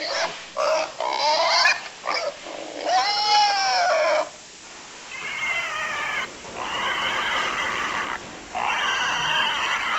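Animal calls: a run of high, squealing cries for about the first four seconds, then longer, harsher cries repeated every second or so from about five seconds in.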